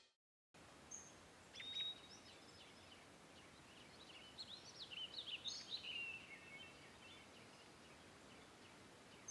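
Faint birdsong: several small birds chirping over a low outdoor hiss. It starts after half a second of silence, and the chirps are busiest in the middle.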